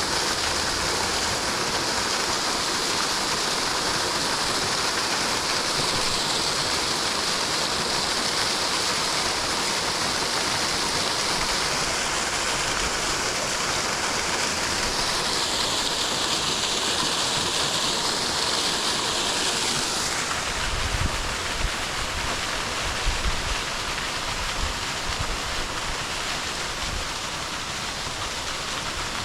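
Steady rush of a stream running full after rain. About two-thirds of the way in the hiss dulls, and a few low thumps come through.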